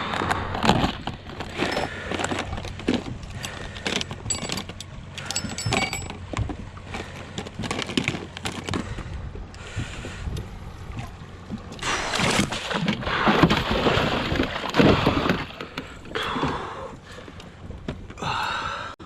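A landed muskie thrashing in a landing net at a boat: irregular knocks and rattles with several bursts of splashing, the strongest a little past halfway and near the end.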